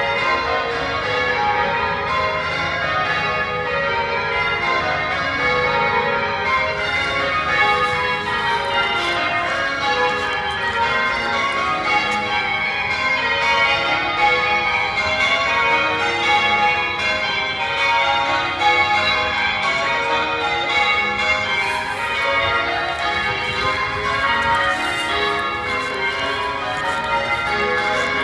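A ring of church bells being change-rung, many bells struck one after another in a steady, unbroken peal.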